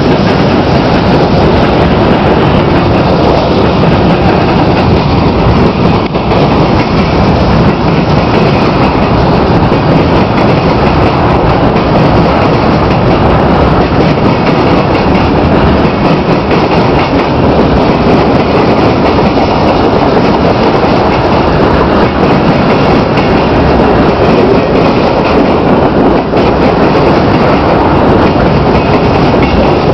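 Freight train cars rolling past close by: a loud, steady rumble of steel wheels on the rails that holds without a break.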